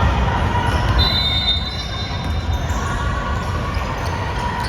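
Basketball being dribbled on a gym floor during a game, with a high sneaker squeak about a second in, over the steady rumble of the hall.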